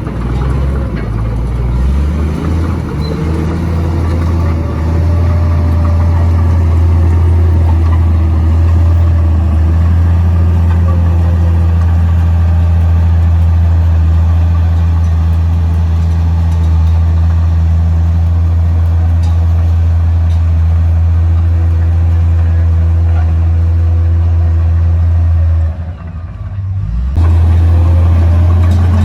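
Komatsu D58P bulldozer's diesel engine running steadily under load, with a fainter whine that rises and falls over the low engine note. Near the end the sound briefly drops away, then comes back louder.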